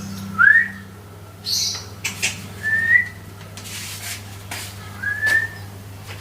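Streaked weaver calling: three short, rising whistled notes about two and a half seconds apart, with brief buzzy, hissing notes between them.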